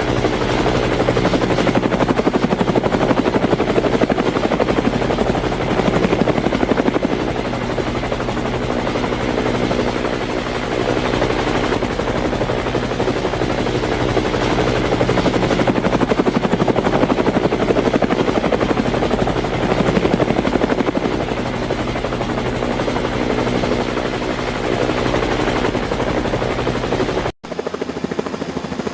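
Helicopter in flight, its engine and rotor running steadily with a fast rhythmic beat from the blades. The sound drops out for a moment near the end and then goes on duller.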